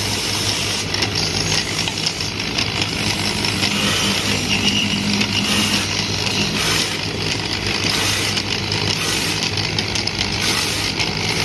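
Electric wood lathe running steadily, its motor humming, while a cutting tool shaves the spinning wood with a hiss that comes and goes every second or so.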